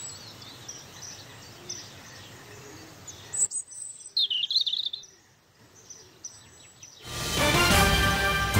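Birds chirping over a steady background hiss, with a brief cluster of bright chirps about four seconds in. Near the end, music starts and becomes the loudest sound.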